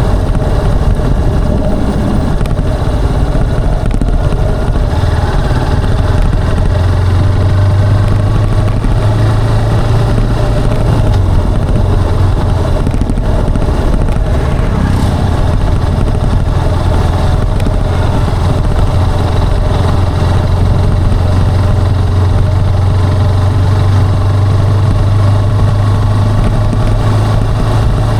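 Motorcycle engine and exhaust running at a steady cruise on the move, the engine note easing for a few seconds about halfway through, over a constant rush of wind and road noise.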